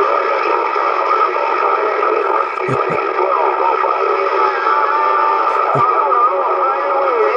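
CB radio receiver on channel 11 AM playing long-distance skip: several faint, distant stations talking over each other under steady static and heterodyne whistles, a 'hornet's nest' of calls coming back. A few brief low thumps sound near the middle.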